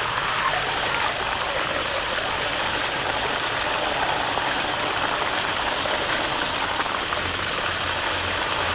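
Cow intestine deep-frying in hot oil in a wok: a steady, dense sizzle.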